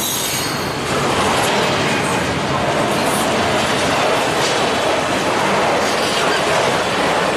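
Freight train passing close by: a steady, loud run of steel wheels rolling on the rails as double-stack container well cars and then autorack cars go by.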